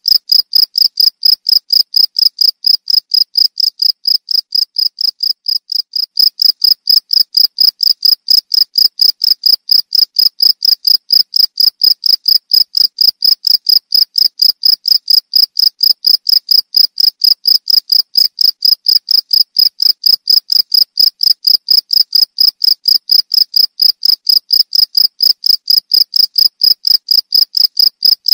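Cricket chirping in an even, high-pitched pulse of about four chirps a second, dipping slightly in loudness around five seconds in.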